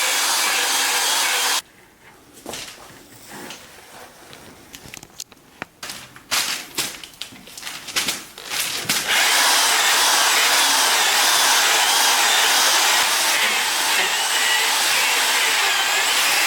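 Electric drill with a paddle mixer running steadily, stirring thick sugar-and-honey bee fondant in a bucket. It stops about a second and a half in, a few knocks and scrapes follow, and it starts again about nine seconds in and runs steadily.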